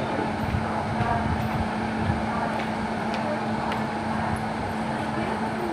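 Train at a railway station: a steady rumble with a constant hum and a few light clicks.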